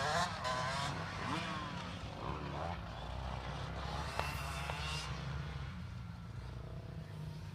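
Motocross bike engines revving up and falling back as they ride around the track, several engines at different pitches overlapping, loudest in the first couple of seconds. Two sharp clicks a little past halfway.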